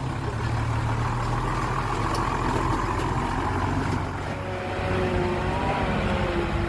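Heavy diesel engine of earth-moving machinery running steadily, with a wavering whine that joins in about halfway through.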